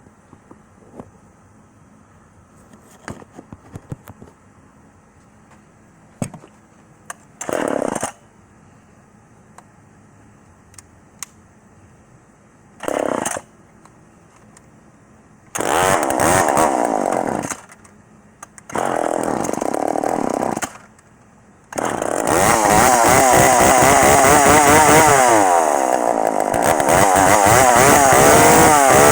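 Old two-stroke chainsaw being pull-started. Two short bursts come about five seconds apart. It then runs for about two seconds twice, cutting out each time, and about 22 seconds in it starts and keeps running, loud, with its engine speed rising and falling.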